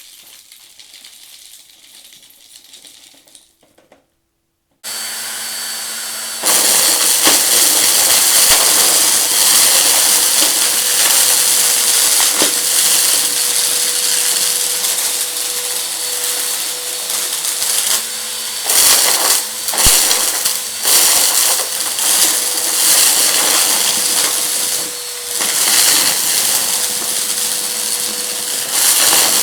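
Faint rattling at first, then after a moment of silence a vacuum cleaner switches on about five seconds in and runs loud and steady with a constant hum. Crunchy debris crackles and rattles as it is sucked up from the rug.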